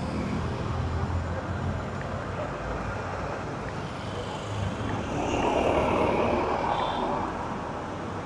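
City street traffic noise, with a vehicle passing louder about five seconds in and fading again about two seconds later.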